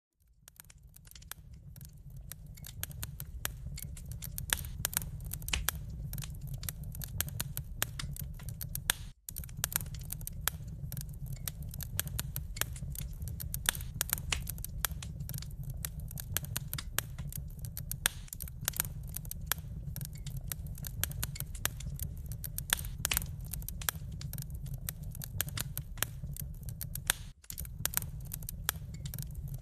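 Wood fire burning in a fireplace: a low steady rumble under dense, irregular crackling and sharp pops. It fades up over the first few seconds and cuts out for a split second twice.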